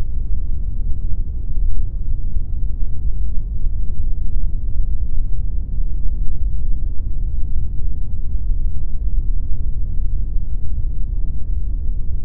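Steady generated pink noise: an even, deep rumbling hiss with most of its weight in the bass and little in the treble.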